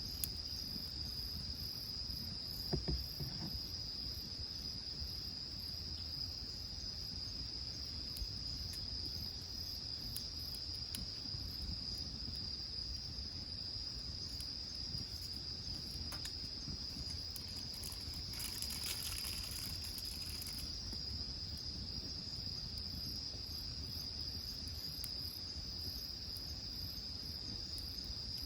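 Insects singing in one unbroken high-pitched trill, with faint scattered crackles from a wood fire.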